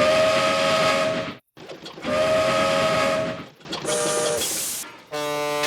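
Steam train whistle blowing two long blasts, a chord of a few tones over a rush of steam, then a shorter blast with a sharp hiss of steam. Near the end a lower, single-pitched horn starts.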